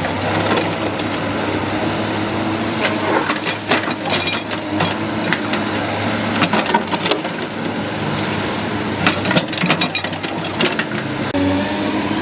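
Excavator engine running steadily, with irregular knocks and clatters of the machine working.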